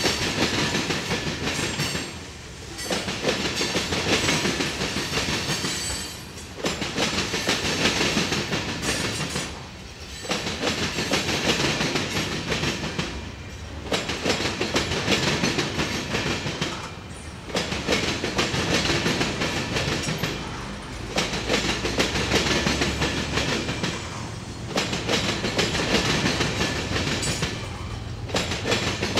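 Loaded ethanol tank cars of a freight train rolling past, steel wheels running over the rails, the noise rising and falling about every four seconds as car after car goes by.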